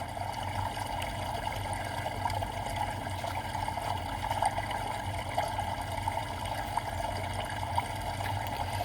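Recorded bamboo water fountain: water trickling steadily with small drips, as sleep white noise.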